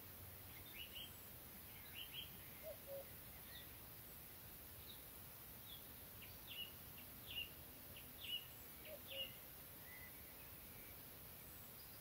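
Wild birds giving short, scattered chirps, busiest and loudest in the second half, over a faint steady hiss of background noise.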